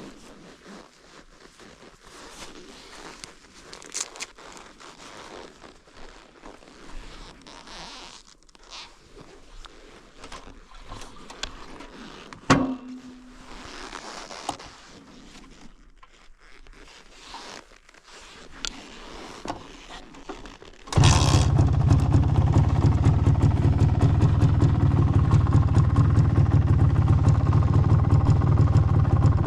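Scrapes, clicks and a sharp knock as the MZ ETZ 250 is handled, then about two-thirds of the way through its single-cylinder two-stroke engine starts at once and idles steadily through the original exhaust.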